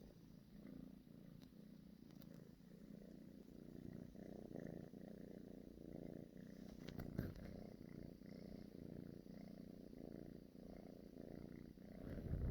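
Kitten purring softly and steadily, the purr swelling and easing in a slow rhythm, with one short tap about seven seconds in.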